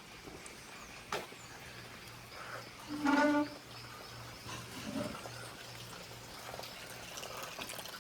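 Frogs calling around a rainforest pond. A low call pulses steadily about twice a second throughout, with a short, louder pitched call about three seconds in.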